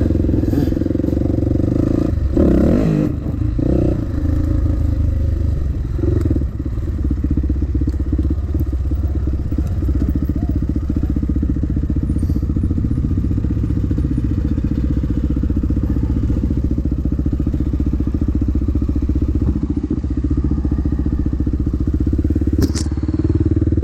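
Dirt bike engine running steadily on a trail ride, with uneven changes in revs in the first few seconds and a single sharp click near the end.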